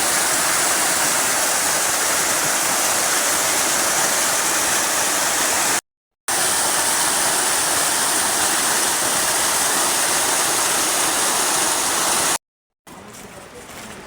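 Loud, steady rushing of water. It cuts off abruptly to silence twice, about six seconds in and near the end, and then gives way to a quieter, patchier sound.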